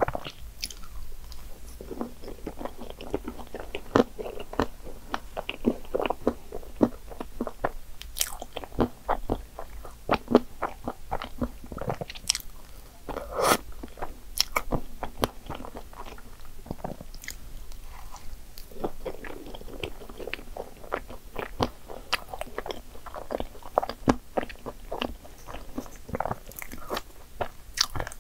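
A person chewing and biting into cream puffs topped with whipped cream and chocolate chips, with many short, sharp crunches scattered throughout.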